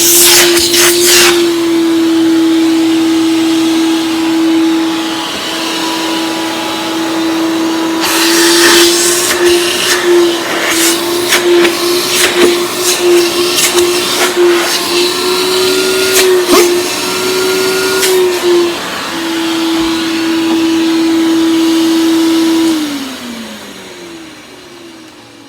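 Old Hoover vacuum cleaner running with its power head, a steady motor hum with irregular rushes of air and clicks as it is worked. Near the end it is switched off and the motor winds down, falling in pitch and fading.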